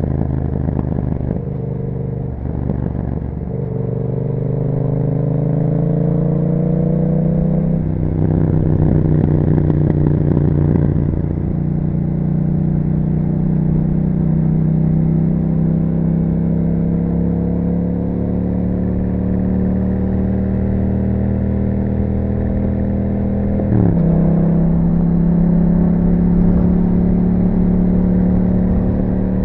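Yamaha MT-07's parallel-twin engine under way through an aftermarket Akrapovic exhaust. Its note climbs steadily as the bike accelerates, then drops suddenly at gear changes, several times.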